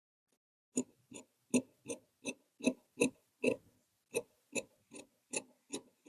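Tailor's shears cutting cloth in a steady run of short snips, about two and a half a second, with a brief pause a little over halfway through.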